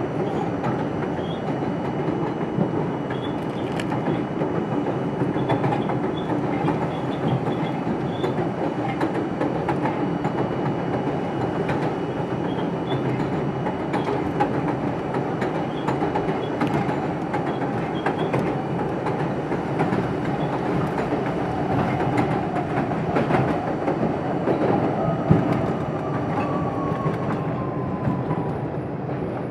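R42 subway train running on the rails: a steady rumble of wheels on track with frequent clicks and knocks from rail joints. A faint whine falls in pitch near the end.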